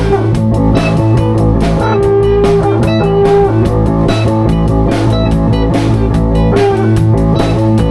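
Live improvised band jam with electric guitar playing over sustained notes and a steady beat of about two strokes a second.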